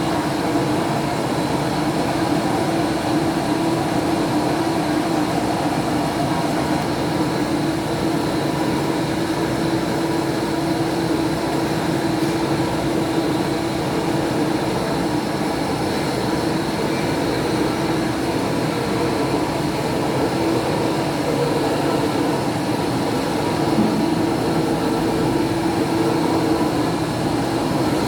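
Metalworking machine running steadily under continuous cutting, a constant mechanical hum with several steady tones layered in it.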